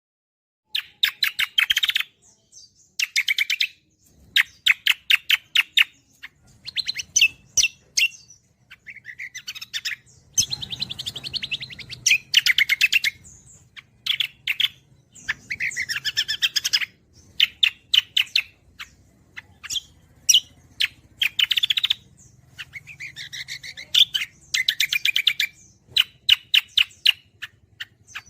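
Cucak kombo songbird singing loud, repeated phrases of rapid, sharp chirping notes, each phrase about a second or two long with short pauses between. A faint low hum runs underneath.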